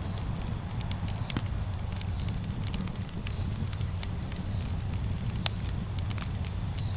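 Campfire burning: a steady low rumble of the flames with sharp crackles and pops of the burning wood, the loudest pop about five and a half seconds in. A short high chirp repeats about once a second.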